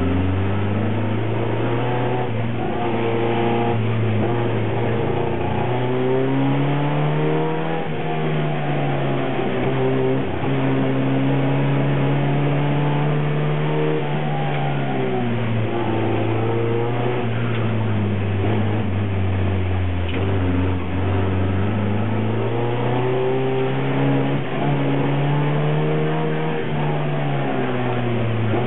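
Škoda Rapid's rear-mounted four-cylinder engine heard from inside the cabin, driven hard: it revs up and falls back again and again as the driver accelerates and lifts between turns.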